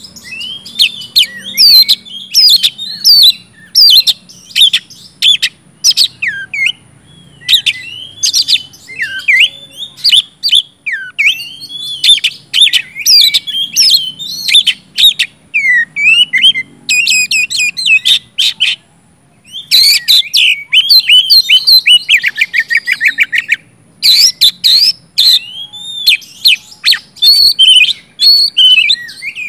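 Oriental magpie-robin (kacer) in full, loud song: a fast, varied run of whistles, chirps and sweeping notes with rapid trills, broken by a short pause about two-thirds of the way in.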